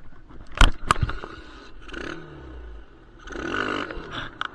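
Crashed dirt bike's engine being started: two sharp clunks near the start, then brief rough revs that rise and fall. It runs poorly, with dirt from the crash still in it.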